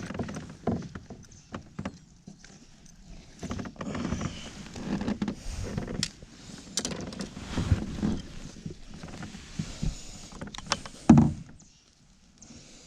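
Irregular knocks, clicks and scrapes of fishing gear being handled in a kayak, with a louder thump against the hull about eleven seconds in.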